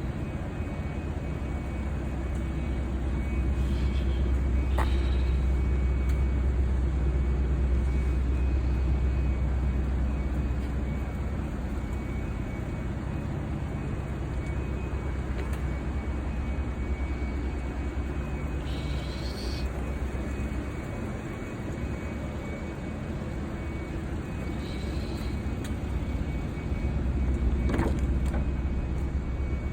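Steady low vehicle rumble that eases for a few seconds past the middle and comes back near the end. Over it are a few faint high squeaks and one sharp click near the end.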